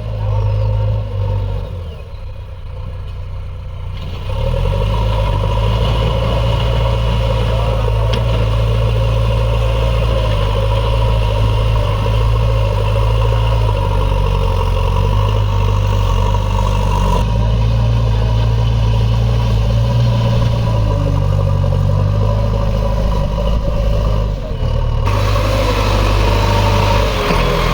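JCB backhoe loader's diesel engine running steadily, then rising to higher revs about four seconds in and holding there while the machine works.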